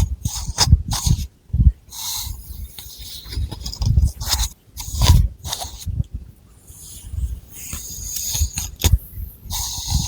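Long fingernails scratching through thick hair and over the scalp close to the microphone: irregular scratchy strokes and hair rustling with sharp clicks and dull low thuds.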